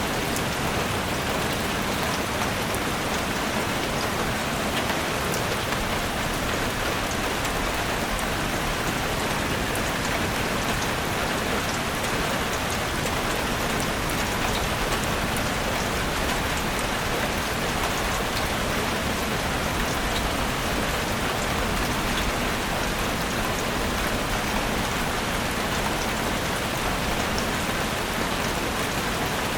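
Steady rain falling in a forest: an even, unbroken hiss with scattered raindrop ticks.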